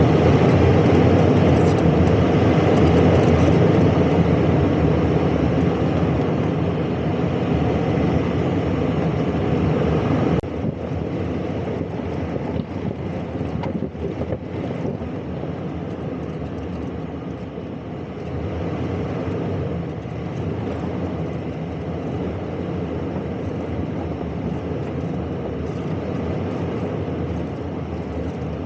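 Toyota 4Runner driving off-road: steady engine and tyre noise from the moving SUV. About ten seconds in the level drops suddenly and the running noise continues quieter.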